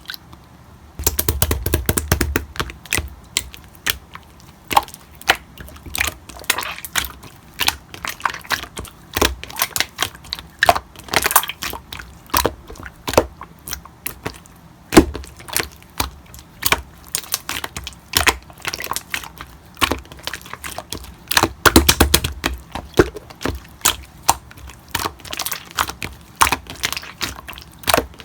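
Slime being squeezed, pressed and stretched by hand, giving off a dense, irregular run of crackling pops and clicks, with a few heavier squishes about a second in and again near the end.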